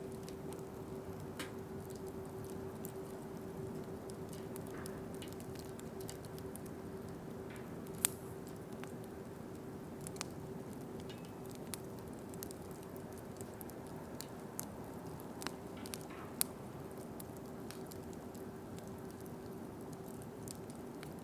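Wood campfire crackling: scattered sharp pops, the loudest about eight seconds in and again near sixteen seconds, over a steady hiss and a steady low hum.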